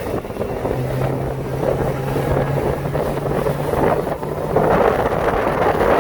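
Strong gusty wind buffeting the microphone, with rushing noise that swells near the end. A steady low hum runs underneath from about a second in until about four and a half seconds.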